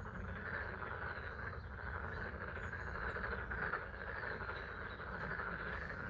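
Chorus of many frogs calling continuously, with spring rain falling.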